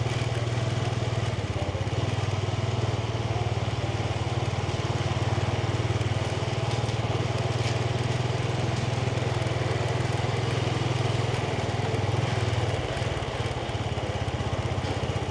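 Yamaha 125cc motorbike's single-cylinder engine running steadily under the rider, easing off a little about thirteen seconds in.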